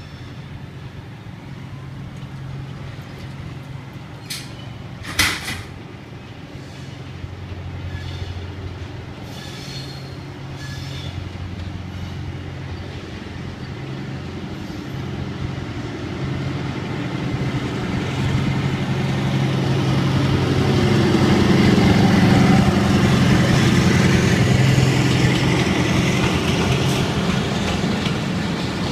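Pakistan Railways ZCU-20 diesel-electric locomotive hauling a passenger train toward and past the listener: a steady engine hum that grows louder as it approaches, joined by the rumble of wheels and coaches as it draws level, loudest about three quarters of the way through. A brief sharp noise about five seconds in.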